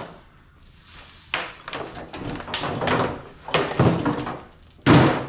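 Sheet-steel and plastic parts of a window air conditioner being pulled apart and handled: scraping and clattering with several knocks, the loudest a bang near the end.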